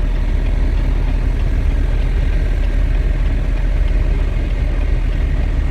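A semi-truck's diesel engine running steadily with a deep, even rumble.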